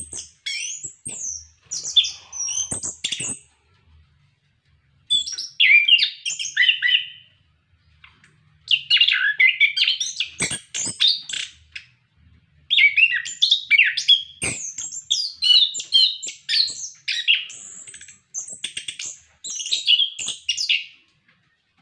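Chestnut-capped thrush (anis kembang) in full song: long bouts of rapid, varied, high whistled and warbled phrases. The song breaks off briefly about four seconds in and again around eight and twelve seconds.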